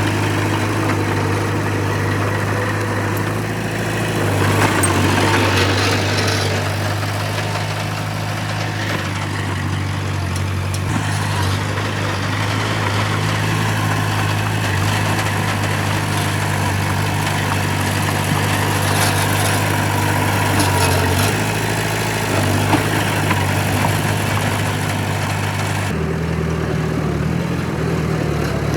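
Heavy diesel engine of earthmoving machinery running steadily with a low hum, with a louder, noisier stretch about four to six seconds in. The sound changes abruptly near the end.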